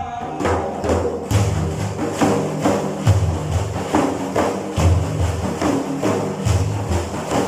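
Frame drums (daff) played by hand in a steady rhythm of about two strokes a second, mixing deep booms with sharp slaps and jingles, between sung verses.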